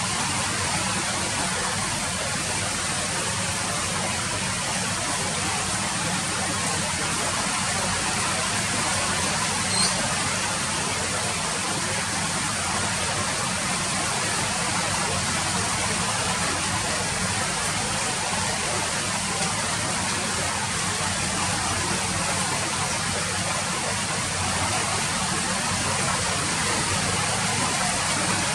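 Steady, even rain falling, with one sharper tick about eight seconds in.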